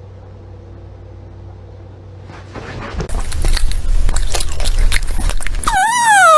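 An animal, most likely a dog, crunching and chewing food loudly and wetly, starting about halfway in. Near the end a short pitched voice sound rises and then falls.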